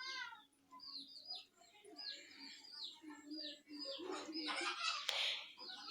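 Faint birds chirping in the background: a quick run of many short, falling chirps, with a brief rustle about five seconds in.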